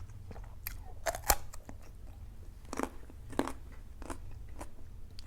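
Close-miked chewing with irregular crisp crunches, a person biting and eating food; the sharpest crunch comes a little over a second in.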